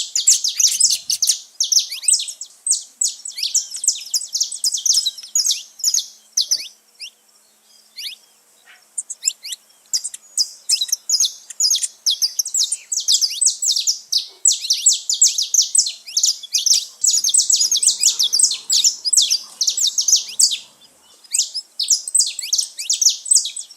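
A group of saffron finches (canário-da-terra) singing and chirping in rapid, overlapping high notes, with a brief lull about eight seconds in.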